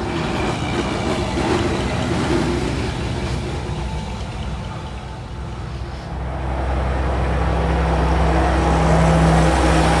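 Vehicle noise, then a steady low engine hum that sets in about six seconds in and grows louder.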